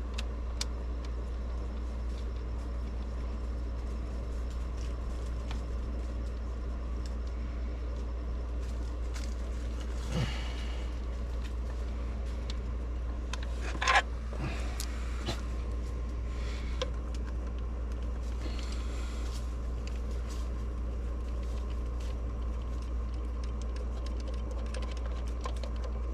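Hand tools loosening and lifting off an engine's top cover, with a few short metallic clinks, the loudest about two-thirds of the way through, over a steady low hum.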